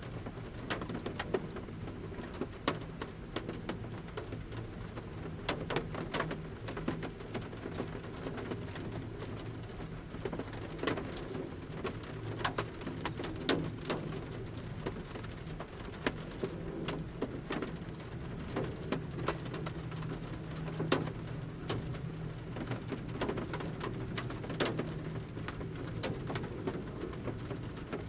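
Large raindrops falling from the forest canopy onto the roof of a camper van, heard from inside the van: irregular sharp taps of varying loudness over a soft, steady rain hiss.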